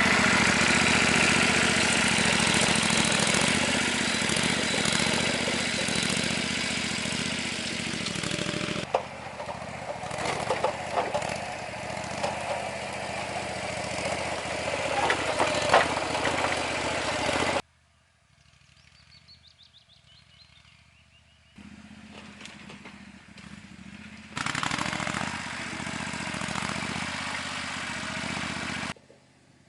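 A small engine running steadily and loudly, cut off abruptly about two-thirds of the way through. A short quiet stretch with faint bird chirps follows, then the engine noise returns briefly before stopping abruptly again near the end.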